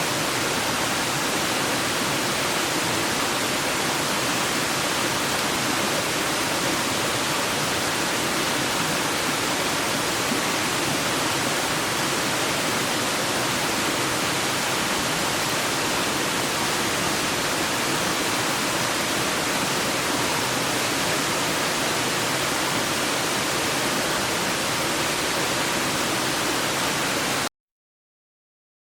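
Clear stream rushing steadily, a dense even hiss of flowing water, which cuts off abruptly near the end.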